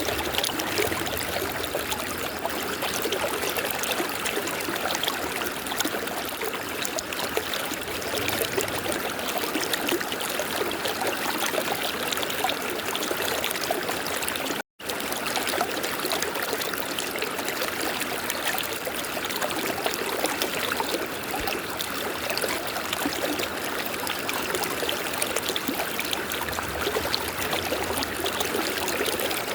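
River water flowing and babbling steadily, with a split-second dropout to silence about halfway through.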